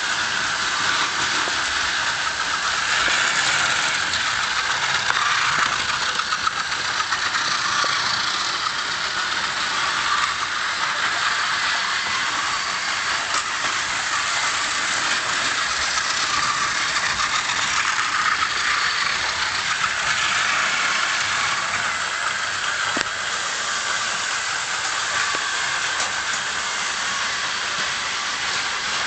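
Several battery-powered Plarail plastic toy trains running on plastic track. Their small motors and gearing make a steady whir, with a few faint clicks.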